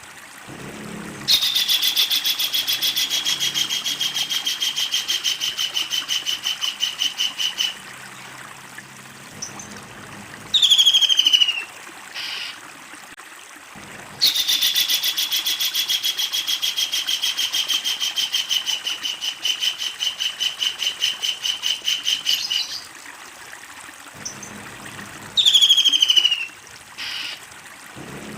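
Kingfisher giving its long laughing call: two long, rapid rattling trills, each lasting about six to eight seconds and slowly falling in pitch. Short, sharp downward-slurred calls sound between and after the trills.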